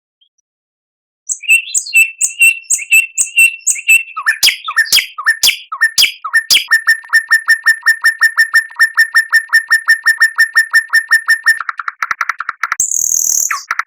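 A recorded songbird singing loudly after a second of silence. It opens with a fast high trill and a few sharp, clicking, downward-sweeping notes, then settles into a long rapid run of the same note repeated on one pitch, ending in a quicker, harsher phrase.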